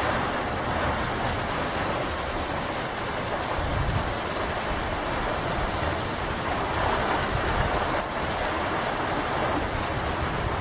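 Rain falling steadily at the start of a thunderstorm: an even, continuous hiss.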